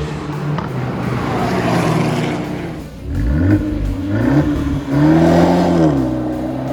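Abarth 124 Spider's 1.4-litre turbocharged four-cylinder, with an aftermarket TEZZO exhaust, accelerating hard. After a steady stretch the revs climb sharply about three seconds in, fall back and climb again twice, as with quick upshifts. The note holds high briefly near the end, then eases off.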